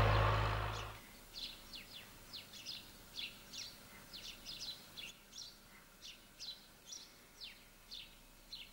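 A small bird chirping: short, high calls repeated about three times a second. It opens with a loud, low engine noise that cuts off about a second in.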